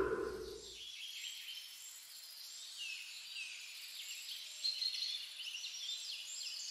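Birds singing and chirping: many quick, overlapping rising and falling notes, fairly faint, beginning about a second in.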